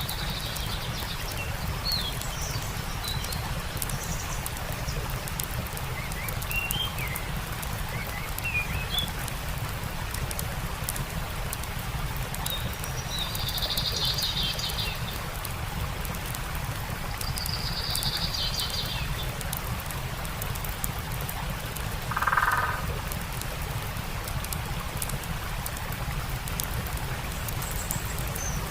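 Steady rush of a stream, with the fine crackling ticks of a campfire and songbirds chirping. Two short bird trills come midway, and a brief, lower, louder call sounds near the end.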